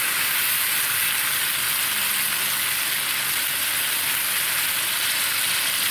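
Ground tomato, garlic and ginger paste sizzling steadily in hot oil in a frying pan, cooked down to the point where the oil separates out from the tomatoes.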